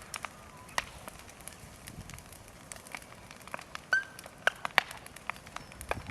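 Large bonfire of fallen timber crackling, with irregular sharp pops and cracks, the loudest about four and five seconds in.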